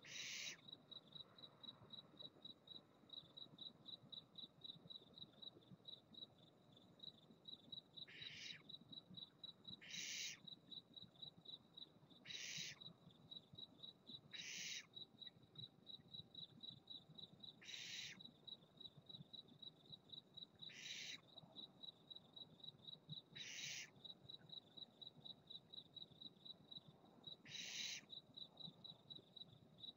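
Barn owl hissing screeches, about nine separate half-second hisses a few seconds apart, faint. Under them an insect, likely a cricket, keeps up a steady rapid pulsing chirp.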